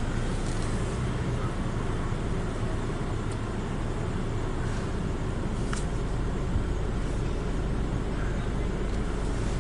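Steady low rumble of a car idling, heard from inside the cabin, with a faint click or two.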